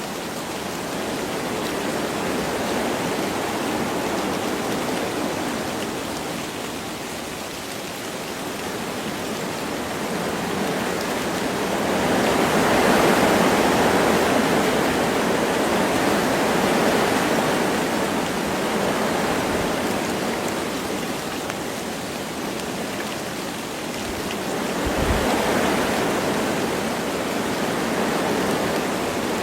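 Wind blowing through forest trees with light rain, a steady rushing that swells in gusts about twelve seconds in and again near the end.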